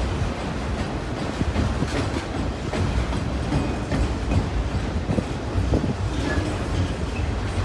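Freight train of enclosed autorack cars rolling past: a steady low rumble of steel wheels on rail, with irregular clacks and a couple of faint brief high squeals.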